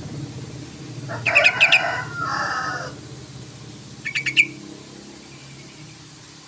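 Yellow-vented bulbul (trucukan) singing: a loud burst of bubbling, chattering notes about a second in, lasting nearly two seconds, then a quick run of four sharp notes about four seconds in.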